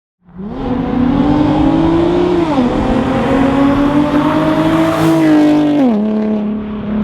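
Car engine under hard acceleration, rising in pitch through the gears. The pitch drops sharply at upshifts about two and a half and six seconds in, then holds steady.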